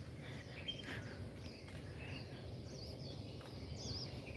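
Small birds chirping, with short high notes and a few wavering whistled phrases that come more often near the end, over a faint steady low rumble of outdoor background noise.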